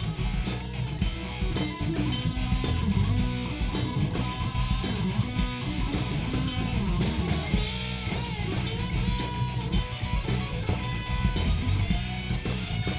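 Live rock band playing an instrumental break: an electric lead guitar solo with bent notes over steady drums and bass.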